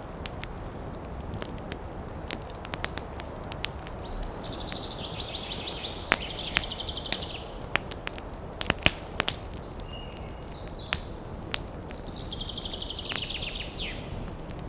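Campfire crackling: burning wood pops and snaps at irregular moments over a steady low rush. A high, rapid trill comes in twice, about four seconds in and again near the end.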